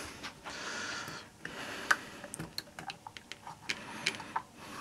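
Small, irregular metal clicks, taps and light scraping: hand work on a split moped engine case while a seal is being removed.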